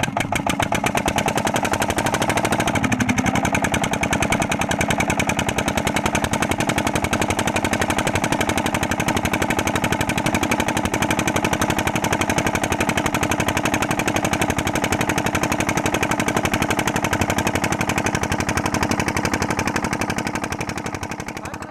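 Petter diesel engine of a tube well pump running steadily after a hard start, its exhaust firing in a rapid, even stream of sharp pops.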